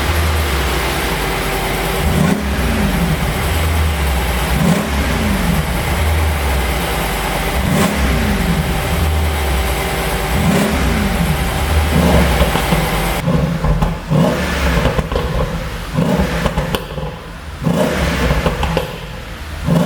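Mercedes-AMG S63's twin-turbo V8 revved in short blips about every two and a half seconds, each rev rising and falling back, with sharp pops and crackles from the exhaust's pop tune. From about two-thirds of the way in, the sound turns choppier, with short bursts and gaps.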